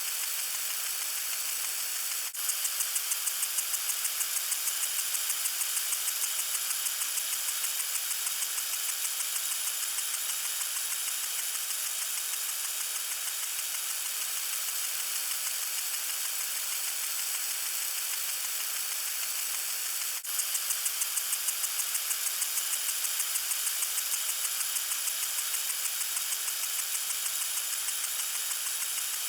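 Lawn sprinkler spraying water: a steady, hissing spray with a rhythmic pulse of about three beats a second. The pulse is strongest just after short dips about two seconds in and again about twenty seconds in.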